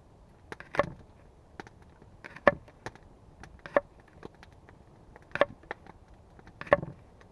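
A tool striking wood in sharp, irregular blows, about five loud ones with lighter taps between, as in chopping or hammering during a log-table build.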